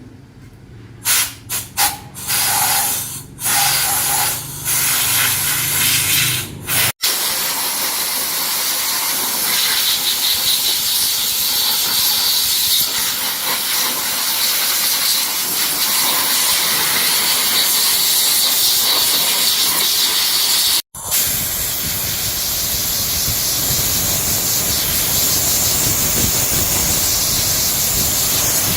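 Loud hissing spray: a few short hissing bursts over the first several seconds, then a long steady hiss.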